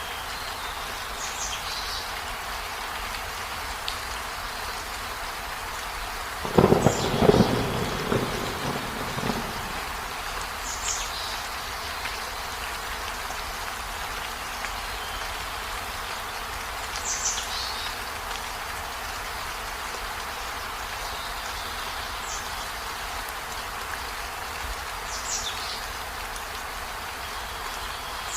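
Steady rain falling, with a clap of thunder rumbling for about three seconds, starting about six and a half seconds in. Short high chirps recur every few seconds over the rain.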